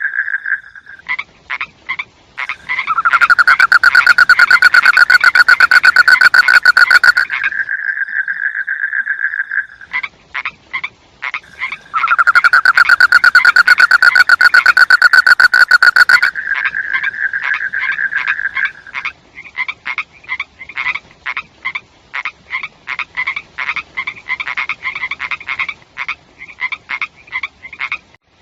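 Frogs calling in fast pulsed trills, with two very loud long trills of several seconds each. These give way to a run of short repeated calls, several a second.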